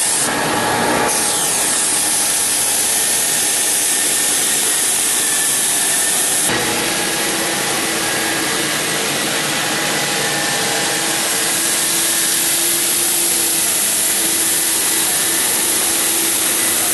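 Belt floor sander running steadily on a hardwood floor, sanding off dried wood filler with a coarse 60 or 80 grit belt. Its tone shifts suddenly twice, about a second in and about six and a half seconds in.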